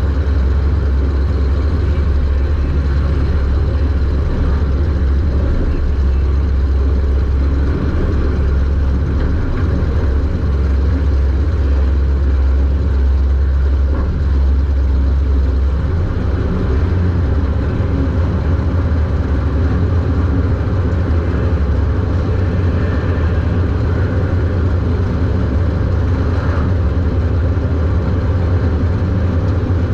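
Super Stock race car's engine running under way, heard from inside the car as a loud, steady low drone. Its low note rises a little about halfway through.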